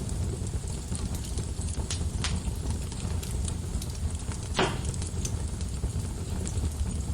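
Wood fire burning in a fireplace: a steady low rumble with scattered crackles and one louder pop about halfway through.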